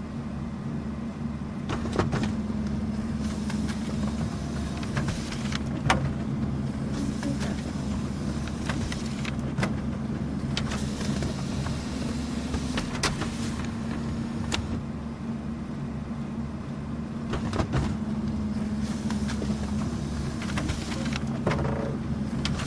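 Office printer running as it prints and feeds paper: a steady motor hum with sharp clicks every few seconds.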